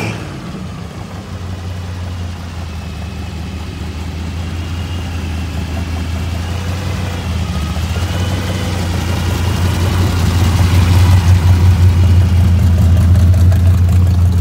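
Rat-rod pickup's exposed hot-rod engine rumbling steadily at low speed, growing louder as the truck rolls up and stops close by.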